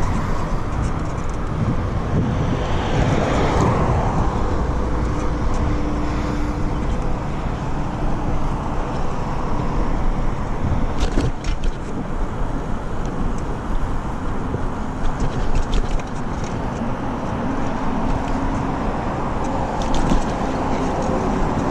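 Passing car traffic and steady road noise, heard from a bicycle being ridden along a busy city road, with a few short clicks.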